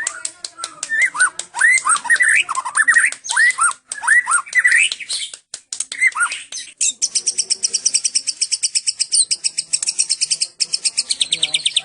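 White-rumped shama (murai batu Medan) singing: quick clicking notes mixed with sweeping whistled phrases, then a little past halfway a long, fast, high trill of evenly repeated notes, the 'cililin' song style, which drops lower near the end.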